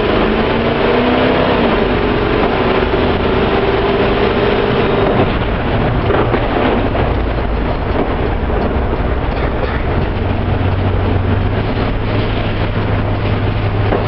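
Ford box van with a rebuilt 351 Cleveland V8 driving, with the engine running under way and steady road noise. A higher hum fades about five seconds in, and a low engine drone grows stronger later on.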